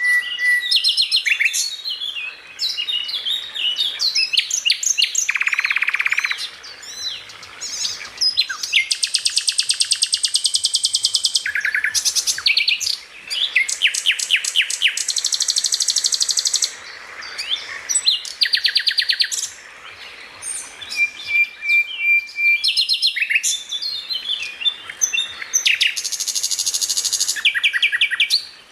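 Songbird singing a loud, varied song of rapid chirps, fast high trills and rattling runs. Short steady whistles come in between, and there are brief pauses around two-thirds of the way through.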